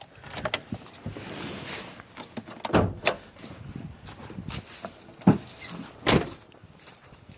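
Handling noises around a vehicle: rustling, then several separate short thunks and clicks about a second or two apart.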